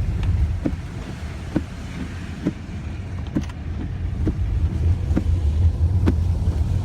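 Car cabin noise while driving: a steady low road and engine rumble, with faint light ticks about once a second.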